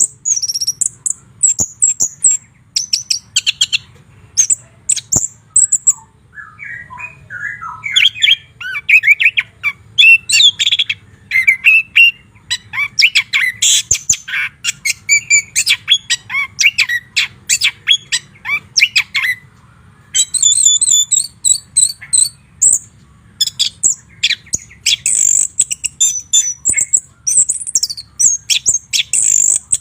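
White-rumped shama singing a long, varied song: fast, high-pitched chattering phrases, a stretch of lower, fuller notes in the middle, then rapid high chatter again. A faint low hum runs underneath.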